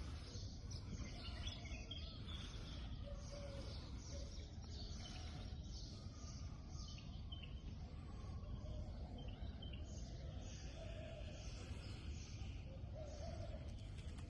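Birds chirping faintly and repeatedly over a steady low outdoor background noise.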